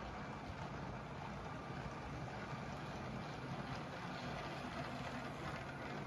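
LEGO train running steadily on plastic LEGO track: the small electric train motor whirring and the wheels rolling, with a faint low hum.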